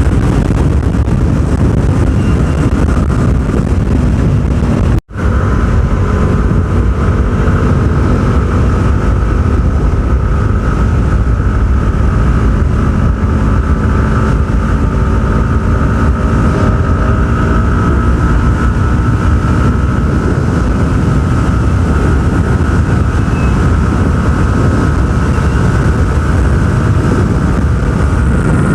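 Yamaha R15 V4's single-cylinder engine running steadily at speed under heavy wind noise on the microphone. The sound cuts out for an instant about five seconds in.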